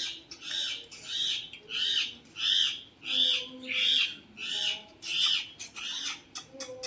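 Pet parrot calling over and over: a string of short, identical calls at about two a second, softening into quicker, smaller calls near the end.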